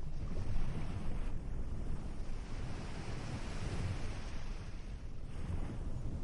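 Surf on a beach, waves washing in and drawing back so the hiss swells and eases every few seconds, over a steady low rumble.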